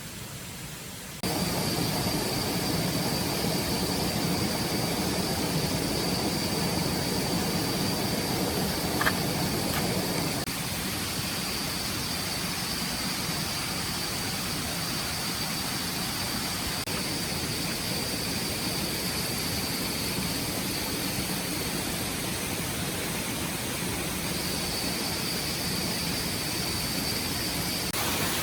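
Stream water flowing with a steady rushing, starting abruptly about a second in. A thin, steady high-pitched tone runs above it.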